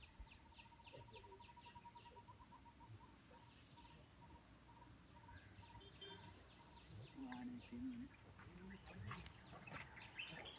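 Near silence: faint outdoor ambience with scattered distant bird chirps and a rapid trill that fades out over the first few seconds.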